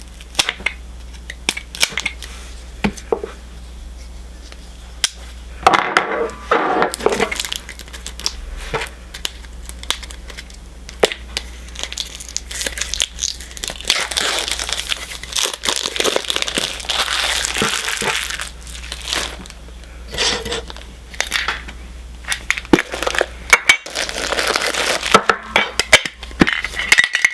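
Plastic shrink wrap being cut with a knife and peeled off a Funko Soda can: scattered clicks and taps at first, then longer stretches of crinkling.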